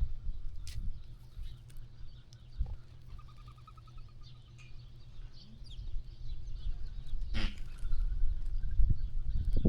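Sheep-farm ambience: small birds chirping, with a short trill about three seconds in, over a low rumble that is stronger near the start and end. One short, louder call sounds about seven seconds in.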